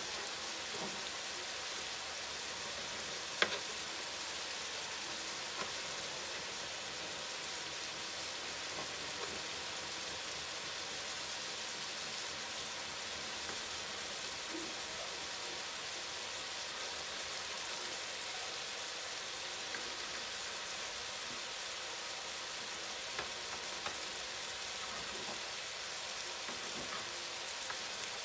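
Steady sizzle of a spiced stew base sautéing in a steaming pot on the stove. A sharp click comes about three seconds in, and a few light knife taps follow.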